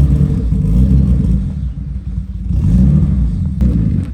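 Nissan R32 Skyline drift car's engine running and revving, its pitch rising and falling twice over a low rumble, with one sharp click about three and a half seconds in.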